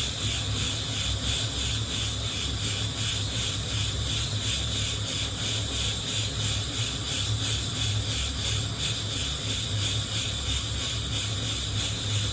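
Coffee beans being shaken in a hand-held mesh roasting net, rustling and rubbing against the wire mesh in an even, continuous rhythm, over a steady low hum.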